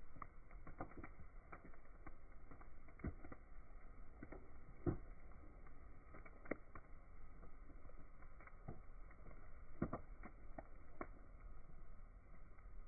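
Bonfire burning with irregular crackles and pops of burning wood over a steady low hiss, the sharpest snap about five seconds in.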